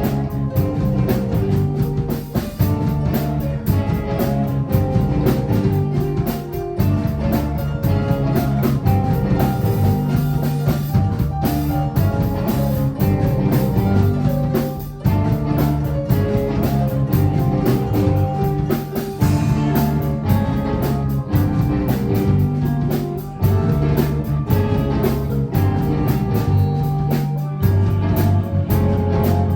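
Live rock band playing a song, with guitar and drum kit over a steady, repeating low bass line.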